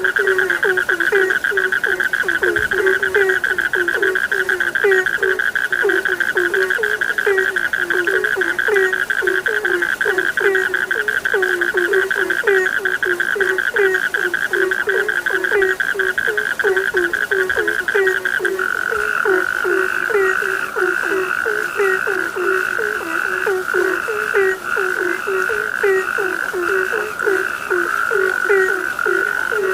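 Chorus of frogs: rapid low croaks, several a second, over a steady high-pitched trill. About two-thirds of the way through, the trill changes abruptly to a slightly lower, less even one.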